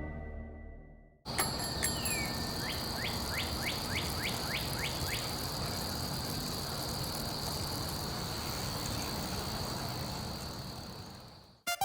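Music fades out, and after a moment of silence an ambient sound-effect bed begins: an even hiss with a steady high whine, and a quick series of about eight short falling chirps about two to five seconds in.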